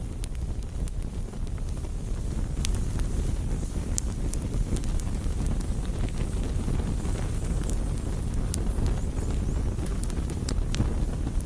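Campfire burning: wood crackling, with sharp pops scattered irregularly over a steady low rumble.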